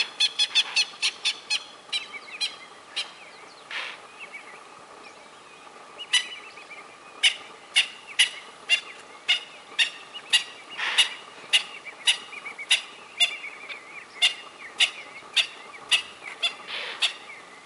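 A rapid series of short, sharp alarm calls at a lioness. A quick burst comes in the first few seconds, then the calls repeat about twice a second from about six seconds in.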